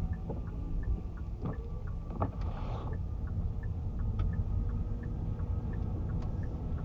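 Car's turn-signal indicator ticking steadily, about three ticks a second, over the low rumble of the car driving, heard inside the cabin. A few louder knocks come in about one and a half to two seconds in.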